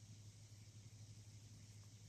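Near silence: a low steady hum with a faint even hiss, and no clear birdsong.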